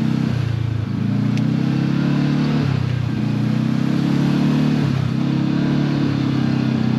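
Side-by-side UTV engine running under way, its pitch stepping up and down several times as the throttle is eased on and off.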